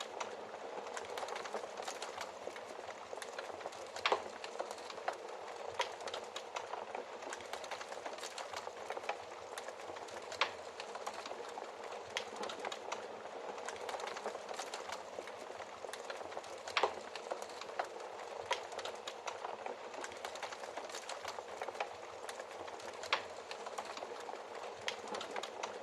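Wood fire crackling: a steady hiss with constant small crackles and a sharper, louder pop about every six seconds.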